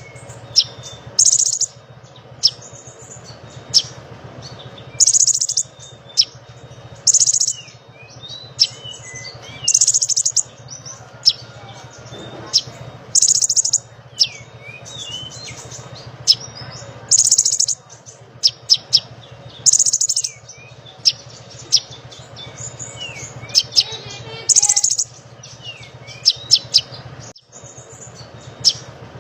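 Konin songbird singing energetically: loud, high, buzzy trills about every two to three seconds, mixed with sharp chips and swooping whistles. A steady low hum runs underneath.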